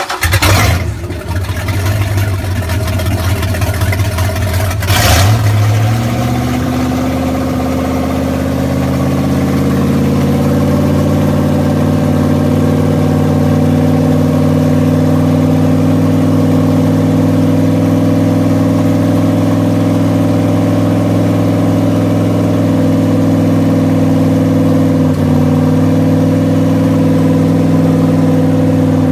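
Mercruiser 383 V8 marine engine with a Hitek exhaust system starting up: it runs rough and surges for the first few seconds, then settles into a steady idle from about six seconds in.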